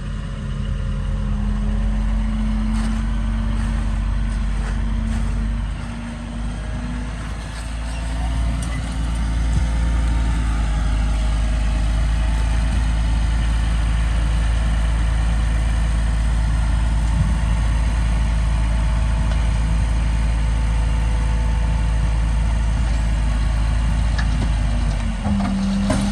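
Heavy diesel engine of earthmoving equipment running steadily, with a brief dip in level about six seconds in.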